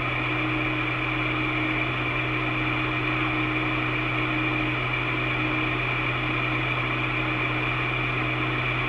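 Steady hiss and hum of an open radio channel between transmissions, with a few faint steady tones running through the noise.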